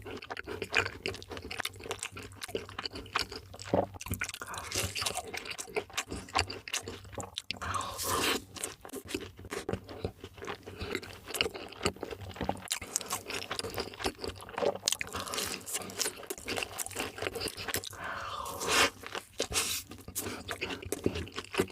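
Close-miked eating of fast food: crisp crunching bites and chewing, dense and irregular throughout.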